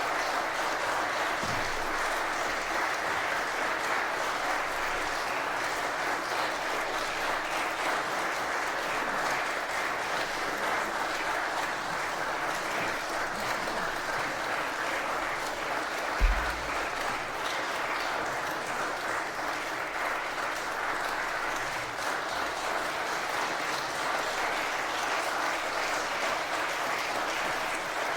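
Concert audience applauding steadily after the final song, with a single low thump about halfway through.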